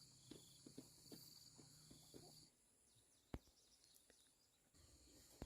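Faint, steady high chirring of insects such as crickets. It drops out about halfway through and comes back near the end, with a single sharp click a little after the middle.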